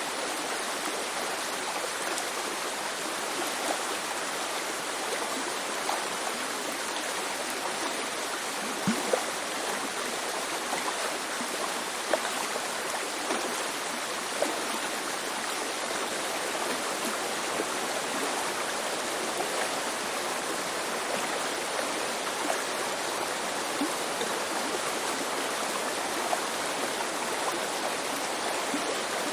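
Shallow mountain river babbling steadily, with a few brief gurgles and plops, the loudest about nine and twelve seconds in.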